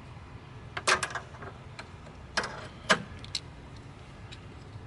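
A few sharp clicks and clatters, about a second in and again around two and a half and three seconds, as the leads of a starter bypass tool are clipped onto power in a car's engine bay.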